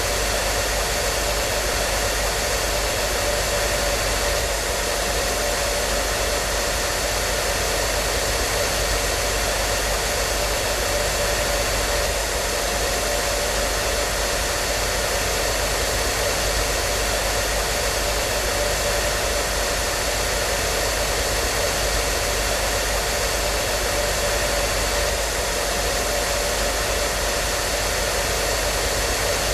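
Hair dryer running steadily: an even rushing blow of air with a faint steady motor whine.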